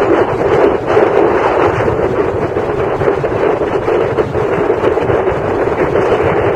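Steady rushing and rumbling of a moving train heard from on board, with wind buffeting the microphone.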